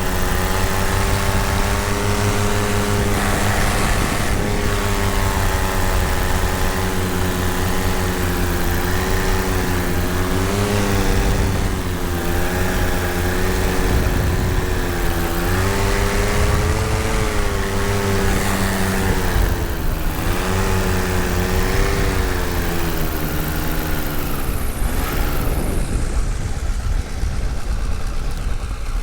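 Tandem paramotor engine and propeller running under power, its pitch wavering up and down with throttle changes, then falling steeply near the end as the throttle is pulled back. A steady rush of wind noise runs underneath.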